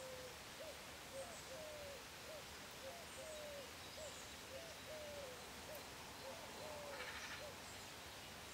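A bird calling faintly with a steady series of soft, low, pure-toned notes, two or three a second, some short and some drawn out in a falling arc.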